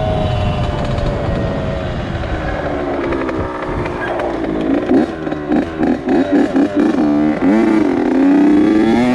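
Honda CR80 two-stroke dirt bike engine on a ride: the engine note falls for the first few seconds as it eases off, then the throttle is blipped in a quick series of short revs from about five seconds in, settling to a steadier note near the end.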